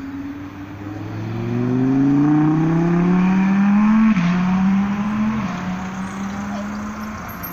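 Audi R8 engine accelerating hard, its pitch climbing and then dropping at two quick upshifts about four and five and a half seconds in. It is loudest just before the first shift and then fades as the car pulls away.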